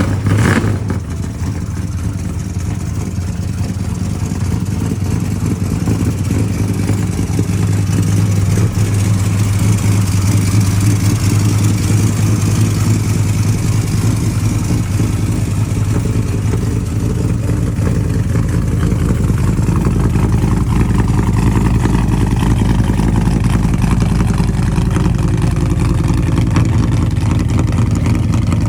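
Car engine running steadily at idle, a loud, even low hum. A short burst of noise comes right at the start.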